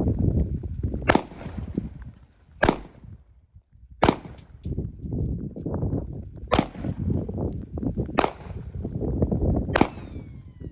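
12-gauge shotgun fired six times in a row, the shots about one and a half to two and a half seconds apart, each a sharp report with a short echo, with a low rumble between the shots.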